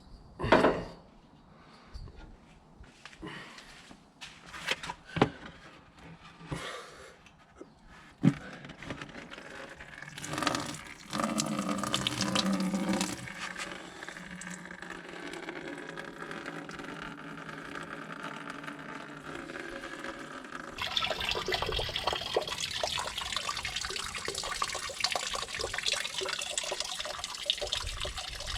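A few sharp knocks of metal on the machine, then engine coolant pouring and splashing steadily out of the Bobcat 753's cooling system, the splashing growing louder about two-thirds of the way through as the radiator is drained.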